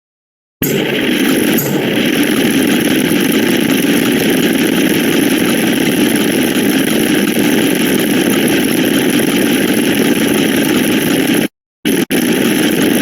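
Dense, harsh, steady noise-like electronic sound effect. It starts abruptly about half a second in and cuts out to dead silence for a moment near the end.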